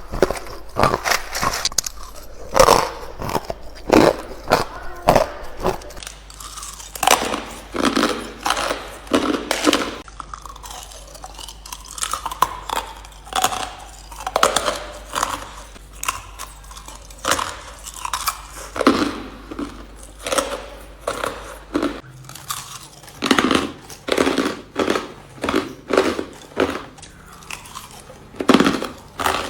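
Ice being bitten and chewed close to the microphone: a long run of sharp, crackly crunches, about one or two a second.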